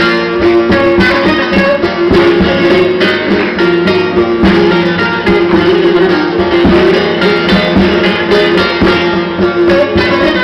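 Instrumental music played on plucked string instruments, with quick plucked notes over a steady held tone.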